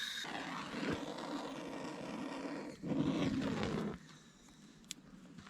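A lighter flame burning with a steady rushing noise as it is held to paper towels to start a campfire. It gets louder near the end and is shut off abruptly about four seconds in, followed by a few faint clicks.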